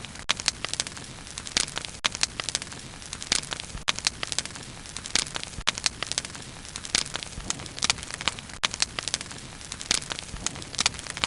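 Wood bonfire burning, with irregular crackles and sharp pops, several a second, over a soft steady hiss of the flames.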